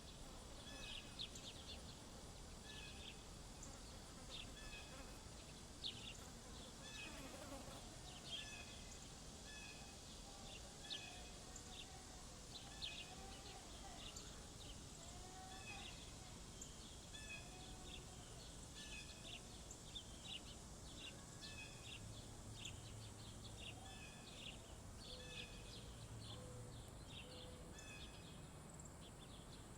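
Faint birdsong: small birds chirping over and over in short high calls, with some lower, gliding calls in the middle. Underneath runs a steady high-pitched insect buzz.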